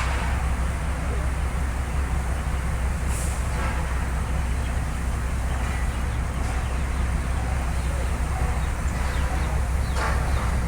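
A steady low engine hum, with faint voices now and then.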